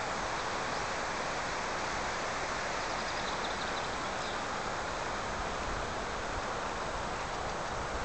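Steady, even outdoor rushing noise, with a few faint high chirps about three to four seconds in.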